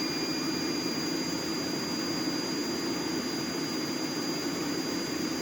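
Heat Star portable forced-air propane heater running: a steady roar of burner and fan, with a thin steady high tone above it.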